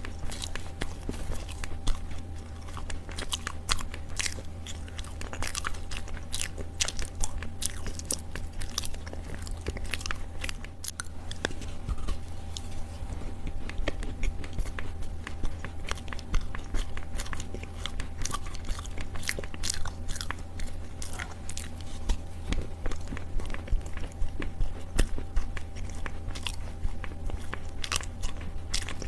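Close-miked biting and chewing of chunks of Chinese loess (dried clay soil): many irregular soft crunches and crackles, with a steady low hum beneath.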